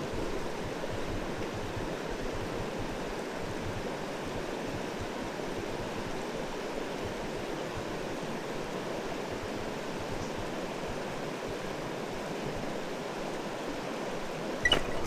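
Steady rush of a clear mountain stream flowing over stones, with a sharp knock near the end.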